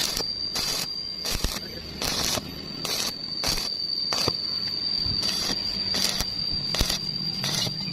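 Welding in a quick series of short bursts, each a brief hiss-like crackle, about two to three a second over a steady high whine and a low hum.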